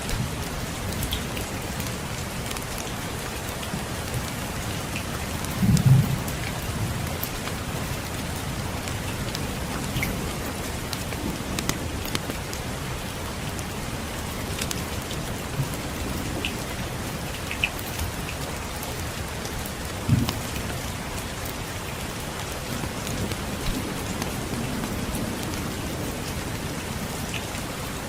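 Steady rain with scattered small crackles, and two brief low thuds about six and twenty seconds in.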